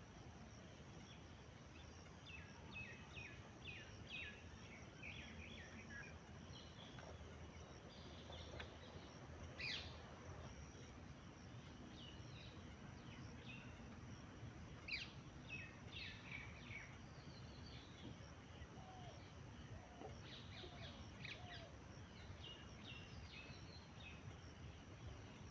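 Birds chirping and singing faintly in scattered runs of short, quick notes, over a steady low background noise.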